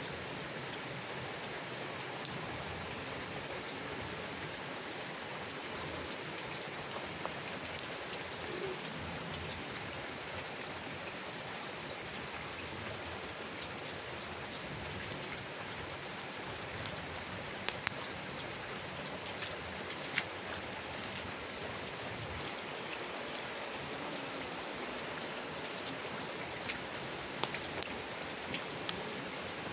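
Steady hiss of rain falling, mixed with a wood campfire burning, with a handful of sharp crackles from the burning logs: a couple just after the middle and several near the end.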